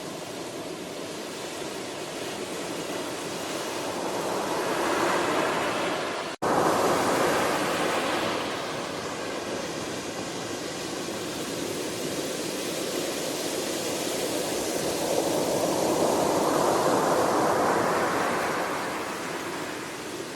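Ocean waves washing onto a shore: a steady hiss of surf that swells twice as waves break and draw back, with a split-second dropout about six seconds in.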